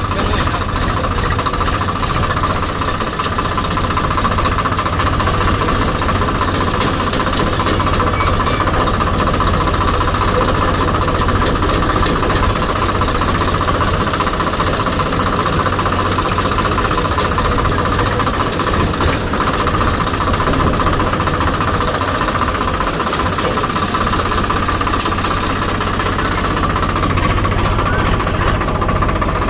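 A heavy machine's diesel engine running steadily close by, with a rapid knocking clatter.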